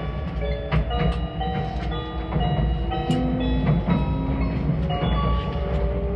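Meitetsu 2000 series μSKY train running: a steady low rumble from the car, with scattered clicks from the wheels on the track. Over it runs a shifting set of steady tones that step up and down in pitch.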